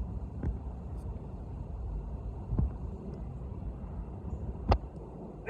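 Steady low rumble of a Boeing 747 jet airliner passing high overhead, with a few short knocks near the microphone.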